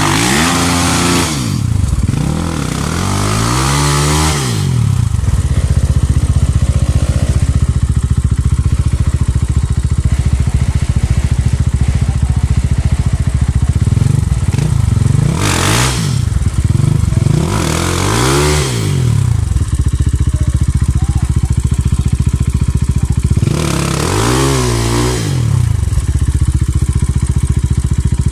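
Off-road trail motorcycle engines running loudly. They rev hard in bursts, pitch climbing and dropping again, at the start, around the middle and a few seconds before the end, with steady running between. Typical of bikes being throttled up a slippery climb.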